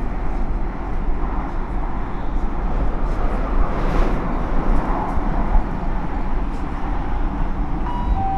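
Ride noise inside a Gautrain Bombardier Electrostar electric train carriage: a steady deep rumble and rush of the train running on the track. Near the end a two-note electronic chime sounds.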